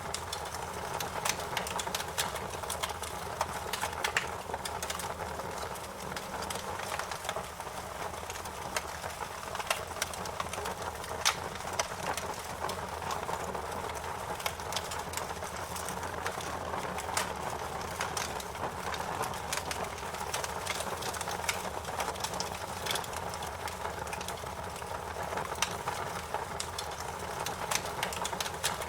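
Wood fire crackling: a steady hiss of burning with many irregular sharp pops and snaps, one louder snap about eleven seconds in.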